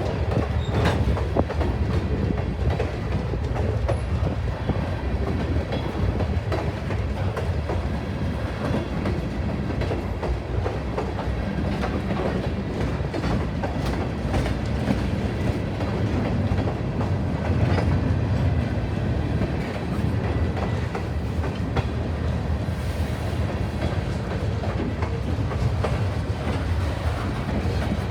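A train rolling past close by: a steady rumble of railcars, with wheels clicking over the rail joints.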